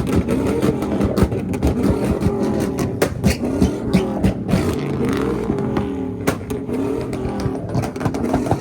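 Several tuned car engines revving hard at once, their pitches rising and falling over each other, with a steady run of sharp exhaust pops and bangs from a flame tune.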